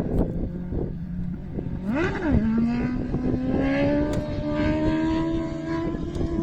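A small engine or motor revs with a quick swoop in pitch about two seconds in, then climbs slowly and steadily, over heavy wind buffeting the microphone.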